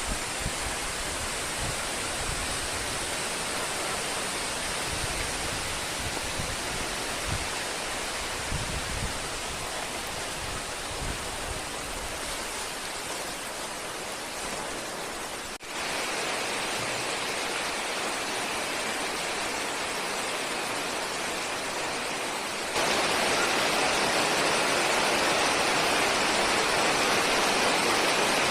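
Heavy rain pouring in a strong wind, a steady hiss with gusts buffeting the microphone as low rumbles in the first half. It breaks off briefly about halfway through and gets louder for the last few seconds.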